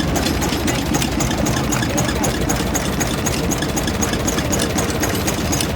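Stationary engine running steadily with a fast, even chugging beat.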